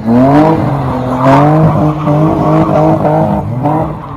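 Car engine revving hard, its pitch rising and falling repeatedly.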